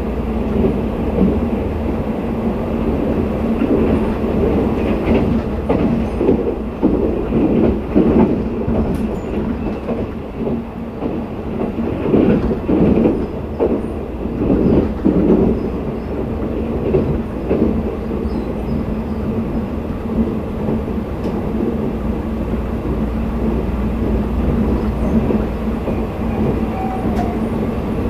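A sleeper train's coach running on the rails, heard from inside the car: a steady rumble and hum, with wheel clacks over the rail joints coming thickest in the middle stretch.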